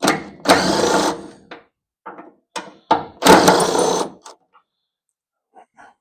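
A cordless power tool running in two bursts of about a second each, backing out the door hinge bolts, followed by a few faint clicks near the end.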